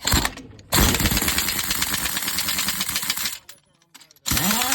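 Pneumatic impact wrench hammering in rapid repeated blows, running for about three seconds, stopping, then spinning up again near the end.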